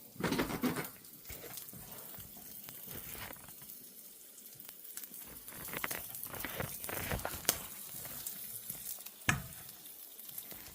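Ham sizzling in a frying pan amid kitchen handling noises: a scraping burst at the start, scattered clatter, a sharp click about three quarters through and a knock near the end.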